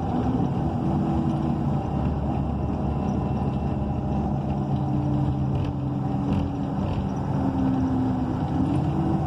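Bus powertrain running while driving, heard from inside: a Cummins Westport ISL G natural-gas engine with an Allison B300R automatic transmission. It gives a steady drone with humming tones that shift in pitch a few times as speed changes.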